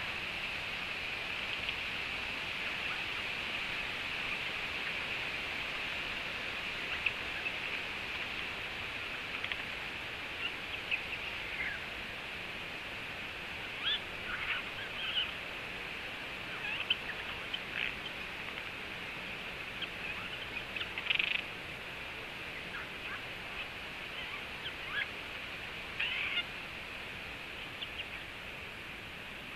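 A bird making a scattered series of short, sharp calls, a dozen or so brief chirps spread over the middle of the stretch, over a steady hiss.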